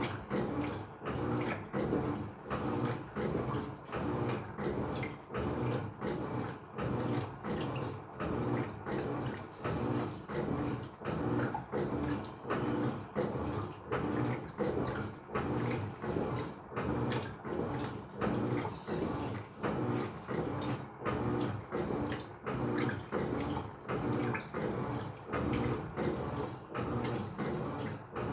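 Electrolux LF75 top-load washing machine agitating: the agitator swings back and forth in an even rhythm, a little over one stroke a second, with water sloshing in the tub on each stroke.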